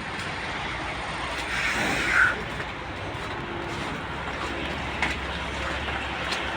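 Steady outdoor vehicle and traffic noise that swells briefly about two seconds in, with a couple of faint clicks near the end.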